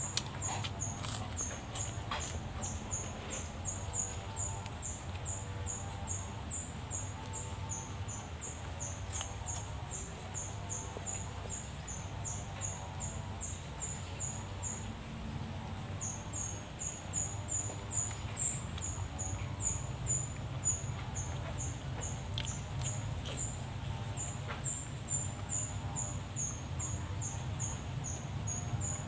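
A person chewing and crunching raw vegetables, heard as scattered soft crunches and clicks, over a high-pitched chirping that repeats about three times a second and breaks off for about a second halfway through.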